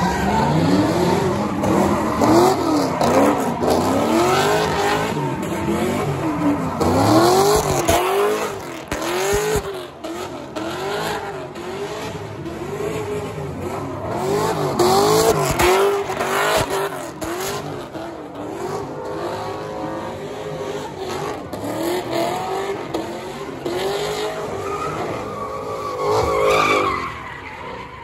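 A car engine being revved up and down over and over as the car spins donuts, its pitch rising and falling about once a second, with tyres screeching as they spin on the pavement.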